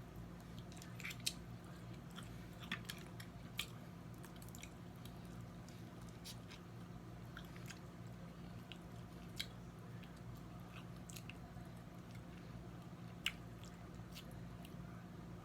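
Eating snow crab legs: faint chewing with scattered sharp clicks and cracks from the crab shell, most of them in the first few seconds and only a couple later. A steady low hum runs underneath.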